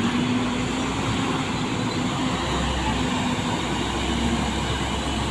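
Heavy transformer-hauling truck's diesel engine running at low speed, a steady low rumble that grows stronger about halfway through.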